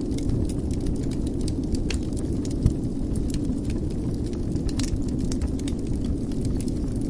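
Wood fire burning in a fireplace: a steady low rumble of the flames with scattered crackles and small pops, one louder pop about two and a half seconds in.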